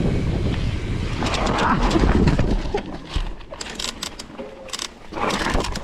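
Rumbling buffeting and rattling on a body-worn action camera, loud for the first couple of seconds and then quieter, with scattered sharp clicks and knocks.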